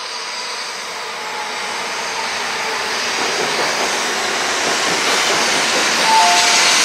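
Shinkansen bullet train running along the platform, a steady rush of wheel and air noise that grows steadily louder. A brief two-note tone, the second lower, sounds about six seconds in.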